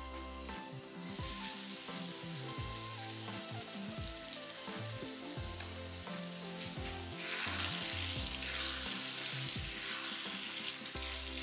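Chicken masala sizzling in an uncovered non-stick kadai, growing louder about seven seconds in as it is stirred with a spatula.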